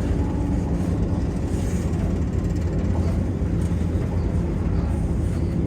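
Class 172 diesel multiple unit running along the line, heard from on board: a steady low rumble of the diesel engine and wheels on the rails.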